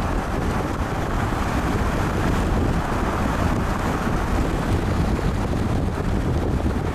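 Strong wind blowing across the microphone, a steady, loud rush with heavy low buffeting.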